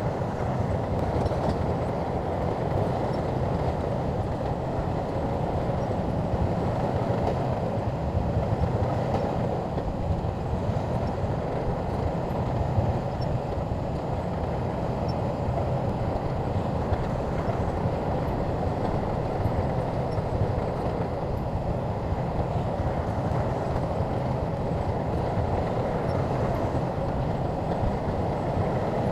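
SHANTUI crawler bulldozer working: its diesel engine runs steadily under load, with the rumble of its steel tracks. The level holds even, with no break or rev change.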